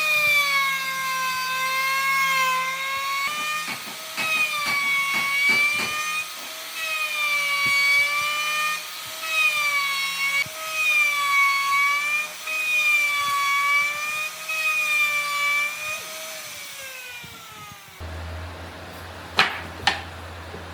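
Electric power tool working wood, its motor whining with a pitch that wavers as the load changes, with a few sharp knocks a few seconds in. Near the end the tool is switched off and the whine falls away as it spins down, followed by a low hum and a couple of clicks.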